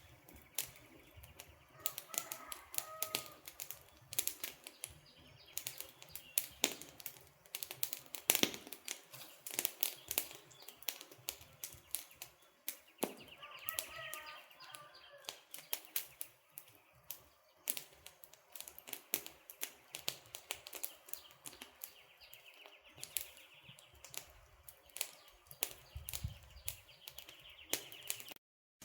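Wood campfire crackling, with frequent irregular sharp pops and snaps over a faint hiss. Faint bird chirps come in about two seconds in and again around fourteen seconds. The sound briefly cuts out near the end.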